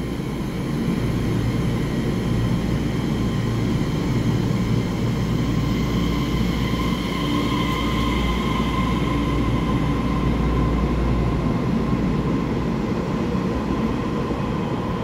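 TRA EMU3000 electric multiple unit pulling out and accelerating past along the platform of an underground station, with a steady rumble of wheels and running gear. A high whine comes in about halfway, and the low rumble drops away near the end as the rear cars go by.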